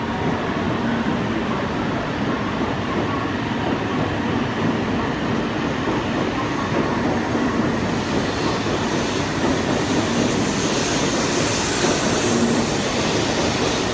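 E2 series Shinkansen train pulling out of the station, its cars rolling steadily past the platform. A hiss grows in from about eight seconds in as it picks up speed.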